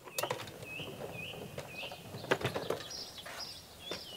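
Small birds chirping: short, quick calls repeated about twice a second, higher-pitched toward the end. Several sharp knocks and clicks, the loudest in the middle.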